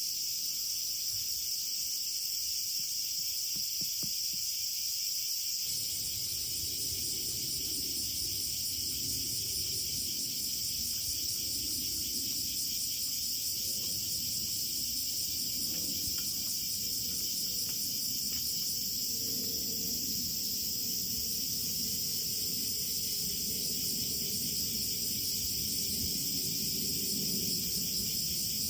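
Crickets chirring steadily. About six seconds in, a low rough noise joins them and continues.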